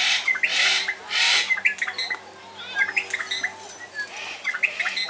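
Parrots calling in an aviary: two loud, harsh squawks in the first second and a half and a fainter one near the end, over many short chirps and whistles from other birds.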